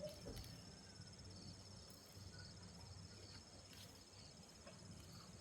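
Faint insects trilling steadily, a high pulsing drone with a short chirp repeating about every second. A soft knock at the very start.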